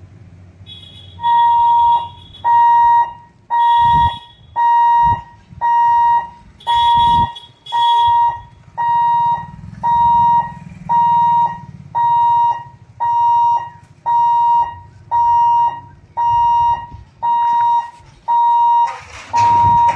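Railway level-crossing warning hooter beeping steadily, about 17 identical high beeps at a little over one per second, starting about a second in. It is the signal that the crossing gate is closed for an approaching train. Near the end there is a brief rush of noise.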